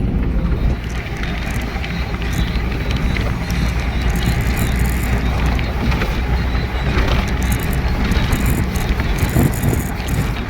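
A truck driving along a highway: steady low engine and road rumble, with wind gusting across the microphone in short bursts of hiss.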